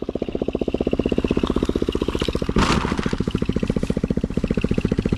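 Small Chinese 110cc ATV's single-cylinder four-stroke engine idling with an even, quick putter of about a dozen beats a second. A short rattling clatter cuts in about two and a half seconds in.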